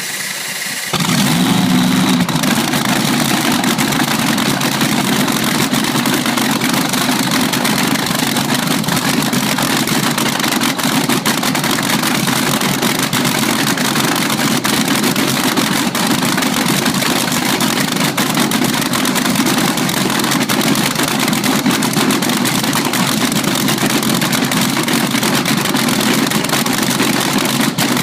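Race car engine just started, stepping up in loudness about a second in and then running loud and steady at idle.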